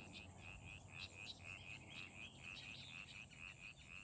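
Faint chorus of frogs and insects: short high calls repeat about three to four times a second over a steady high-pitched insect drone.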